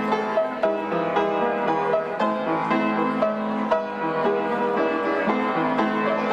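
Slow instrumental keyboard music: a melody moving over held lower chords, with no singing.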